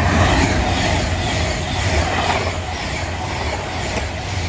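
Passenger train running through the station at speed, its wheels clattering rhythmically over the rail joints; the rush is loudest right at the start and slowly fades as it goes by.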